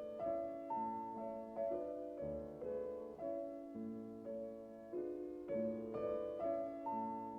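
Solo piano playing a slow, lyrical classical piece, with chords struck every half second or so and each one left to ring and fade.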